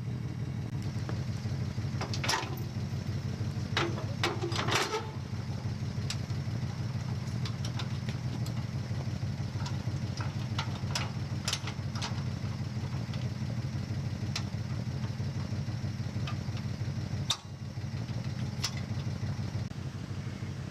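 A Toyota 4Runner's engine idling steadily, with scattered metallic clanks and clinks as a tow dolly's coupler and safety chain are hooked onto the hitch.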